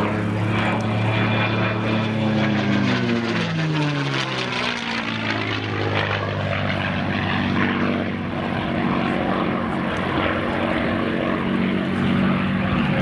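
P-51 Mustang's Packard Merlin V-12 engine and propeller on a flypast, its pitch dropping sharply about three to five seconds in as it passes, then running steadily at a lower note.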